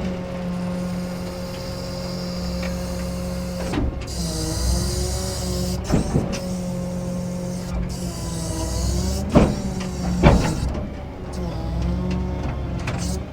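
Rollback tow truck's engine and hydraulic bed running steadily with a motor-like whine; the pitch sags a few times as it comes under load, and there are sharp clunks about six, nine and a half and ten seconds in.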